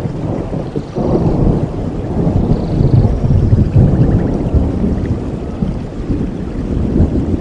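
Thunder rumbling over steady rain: a deep rumble swells suddenly about a second in, holds loud for a few seconds, then slowly dies away.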